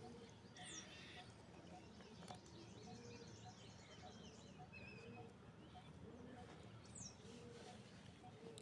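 Faint bird chirps, a few brief high calls, over quiet outdoor background noise, with a soft note repeating about every two-thirds of a second.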